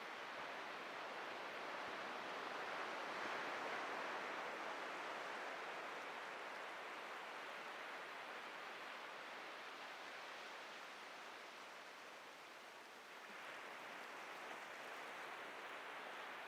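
Atlantic surf washing on a beach: a steady hiss of breaking waves that swells about three to four seconds in, ebbs slowly, and builds again near the end.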